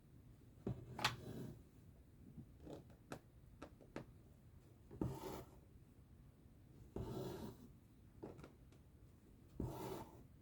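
Embroidery thread pulled through cross-stitch fabric: a short scratchy rasp every couple of seconds, with lighter ticks between.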